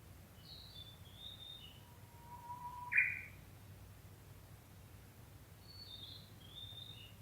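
Japanese bush warbler singing its 'hoo-hokekyo' song once: a long soft rising whistle that ends in a loud, sharp flourish about three seconds in. Short, high twittering phrases come just after the start and again near the end.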